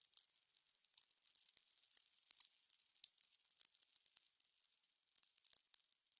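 Fire crackling: irregular sharp pops and snaps over a soft steady hiss.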